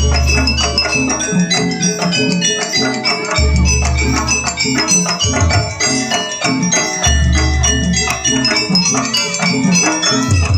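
Live jaranan gamelan music: bronze-keyed metallophones play a fast, repeating interlocking pattern, with a deep low stroke ringing out about every three and a half seconds.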